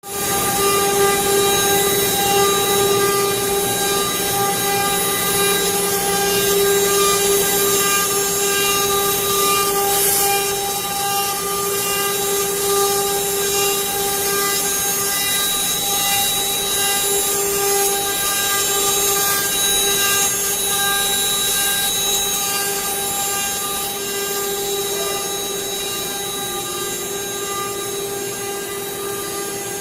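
CNC router spindle whining at a steady pitch while its bit cuts into wood, with a rough cutting hiss under the whine.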